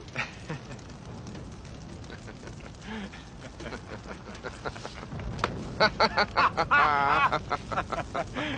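A low background hiss, then a man laughing hard in quick, pitched bursts from a little over halfway in, one laugh drawn out and wavering.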